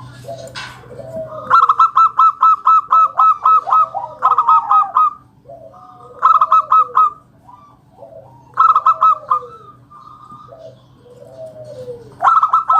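Local zebra dove (perkutut) singing loudly: bursts of rapid short clear notes, about eight a second, the first run lasting a couple of seconds and the later ones shorter. Lower arching coos come between the bursts.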